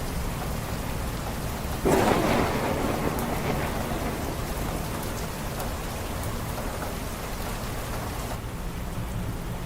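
Steady rain falling, with a sudden crack of thunder about two seconds in that rumbles and fades away over the next few seconds.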